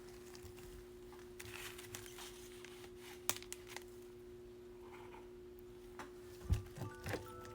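Faint handling noises of a trading card being put into a plastic sleeve and a rigid top loader: soft plastic rustling with a few light clicks and taps. A low steady hum sits underneath, and a brief run of short electronic tones comes near the end.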